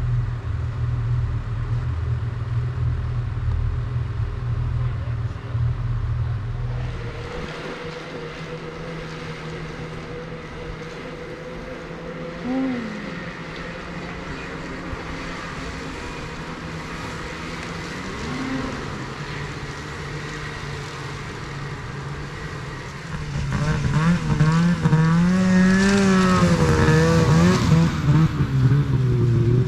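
Snowmobile engines running: a heavy low idle at first, then a lighter steady engine drone, and over the last several seconds an engine revving up and down repeatedly.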